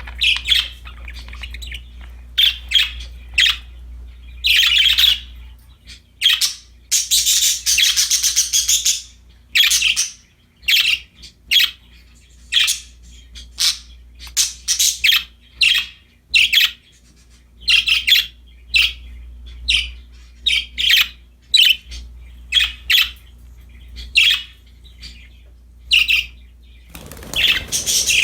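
Pet budgerigars chirping and chattering in quick, short high calls, with a couple of seconds of noisy rustling about seven seconds in and again near the end.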